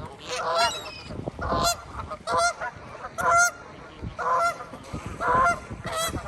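A flock of geese honking repeatedly, about eight loud calls overlapping one another, as the birds squabble over food being thrown to them.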